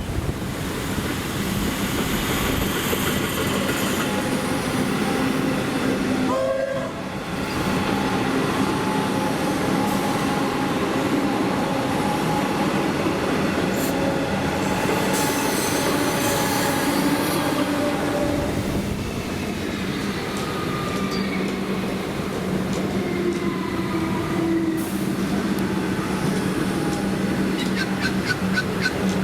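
A train running through the station: a steady low hum with whining tones that shift in pitch, and a quick run of clicks near the end.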